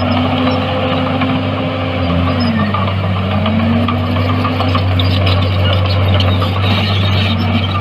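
Heavy construction machine's diesel engine running steadily. Its pitch dips about two and a half seconds in and climbs back, as when the engine takes a load.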